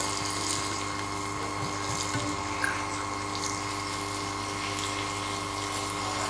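Sliced tomatoes sizzling in hot ghee in a frying pan, with a few light scrapes of a spatula stirring them, over a steady hum.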